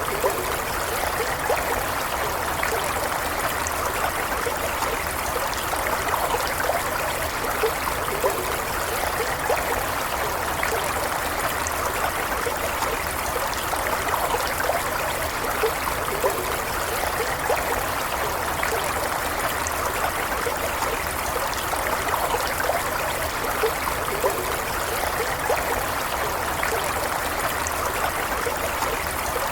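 A small stream running steadily, an even rushing flow dotted with little trickling plinks and splashes.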